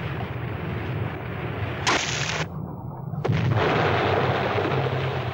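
Rumbling explosion sound effects in an old TV soundtrack: a continuous heavy rumble with a sharp blast about two seconds in, growing louder after it.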